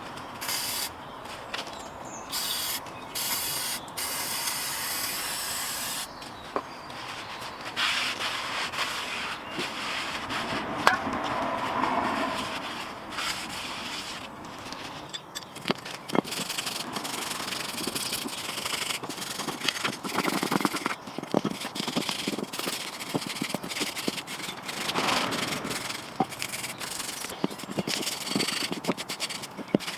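Aerosol spray hissing in short on-off bursts, then scraping and rubbing strokes with scattered metallic clicks, as of hand work on brake parts.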